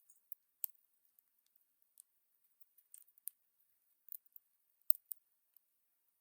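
Irregular sharp little clicks and ticks from dark-eyed juncos pecking and cracking seed at a bird feeder, with a louder pair of clicks about five seconds in.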